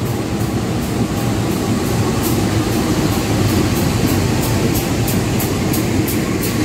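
Diesel-electric locomotive and its passenger coaches rolling past along a station platform. The engine gives a steady low rumble, followed by the running noise of the coaches.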